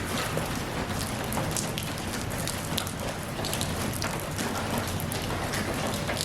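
Steady rain falling, with many separate drops pattering on a surface over the continuous hiss.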